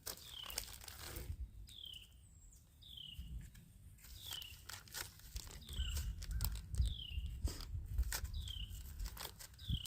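A bird repeating a short, falling chirp about once a second. Scattered clicks and crunches and a low rumble sit underneath.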